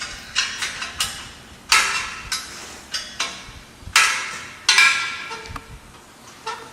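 Metal tools and parts clanking and clinking, about ten irregular sharp knocks with a short ringing after each, the loudest about two, four and five seconds in.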